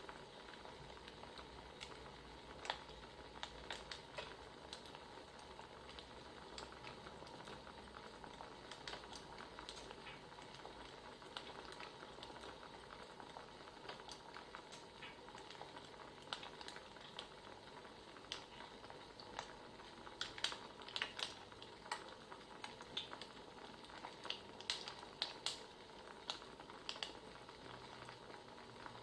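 Firewood crackling: irregular small pops and snaps over a faint steady background, coming more often in the second half.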